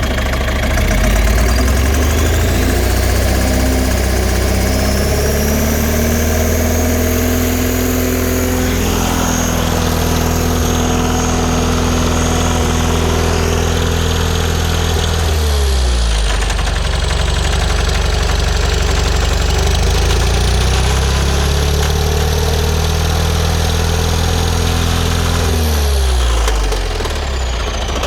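John Deere 4045 four-cylinder diesel engine revved up from idle and held at high speed, dropping back to idle about halfway through. It is revved up and held again, then returns to idle near the end, with a high whine that rises and falls with the revs.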